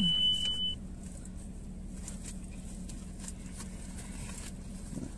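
Faint chewing and mouth sounds of people eating breakfast sandwiches, small scattered clicks over a steady low hum. A high steady beep, carried over from just before, cuts off a little under a second in.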